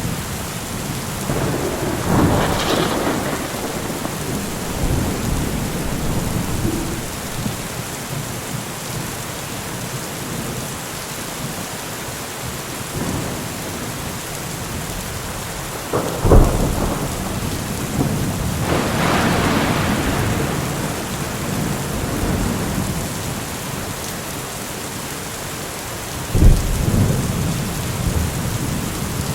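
Steady rain falling in a thunderstorm. There is a roll of thunder a couple of seconds in, a sharp thunderclap about halfway through with rumbling after it, and another sharp clap near the end.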